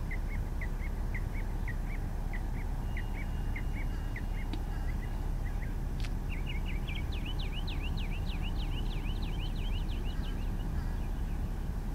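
Birds calling: short repeated notes, about three a second, for the first half, then after a sharp click a faster run of rising chirps until near the end. A steady low rumble runs underneath.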